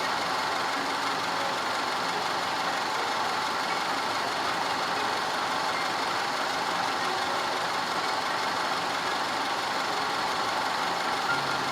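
Audi 2.0 TFSI four-cylinder engine idling steadily.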